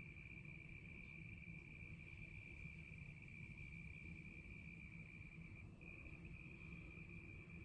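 A cricket trilling: one faint, steady high note that breaks off briefly near the end and resumes, over a faint low rumble.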